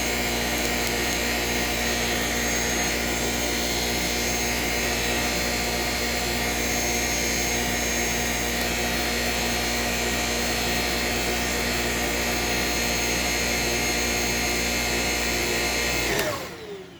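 Shark Rocket self-cleaning vacuum cleaner running steadily, then switched off near the end, its pitch falling as the motor winds down.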